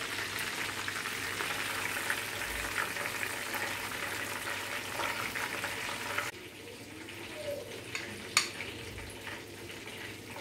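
Oil sizzling and bubbling around breaded chicken drumsticks frying in a pan. The sizzle cuts off suddenly about six seconds in, leaving a fainter hiss and a single sharp click a couple of seconds later.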